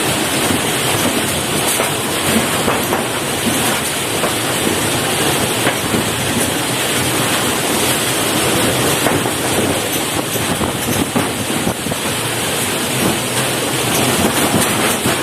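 Typhoon storm noise: a steady, loud rush of wind and rain.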